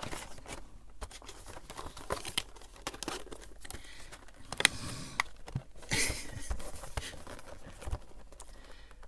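Plastic packaging insert and cardboard box being handled, crinkling and scraping with many sharp clicks and taps, as a Funko Pop figure is worked back into its box.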